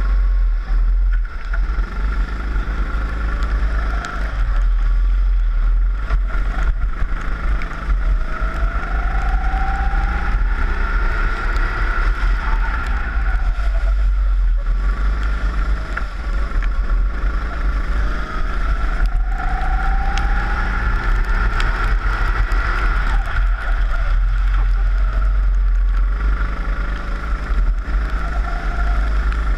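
Four-stroke rental kart engine heard onboard on a wet track, rising in pitch as it accelerates three times, roughly every ten seconds, and falling back in between, under heavy wind rumble on the camera microphone.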